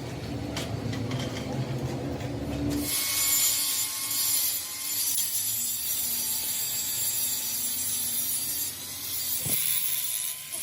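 A power tool working on metal in a workshop: a low rumble for the first few seconds, then a steady, high grinding or cutting noise.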